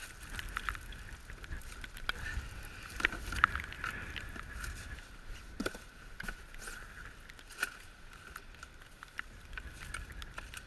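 Scattered clicks, knocks and rustles of goose decoys and their stakes being handled and packed away, over a low rumble of wind on the microphone.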